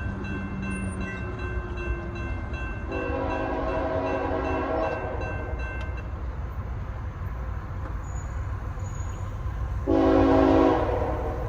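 CSX freight train rolling past with a steady low rumble of wheels and cars. A locomotive horn sounds twice: a blast of about two seconds starting about three seconds in, and a shorter, louder blast near the end.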